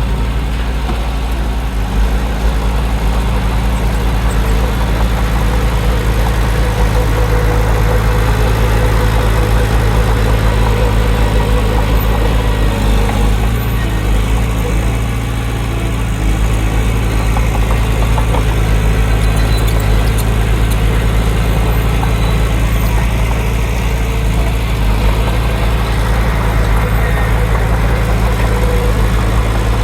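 Heavy diesel engine of earthmoving machinery running steadily with a deep, even hum, easing off briefly about halfway through.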